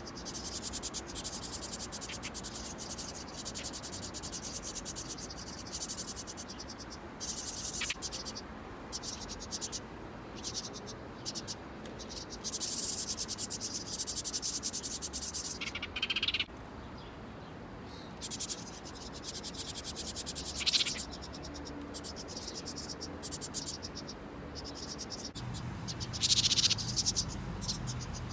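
A chorus of crickets or similar insects chirping in fast pulsed trills that swell and fade in waves, with a short rising call about sixteen seconds in.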